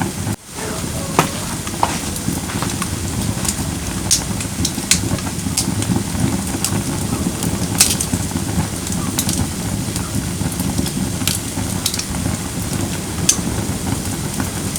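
Firewood burning in a camping fire pit: a steady low rush of flame with scattered sharp crackles and pops from the burning logs. The sound drops out briefly about half a second in.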